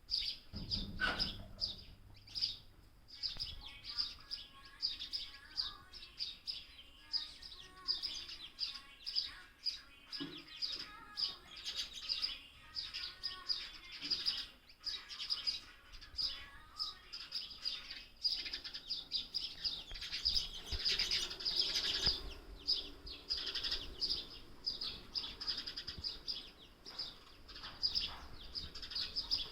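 Young sparrow chirping over and over, short high-pitched chirps in quick runs.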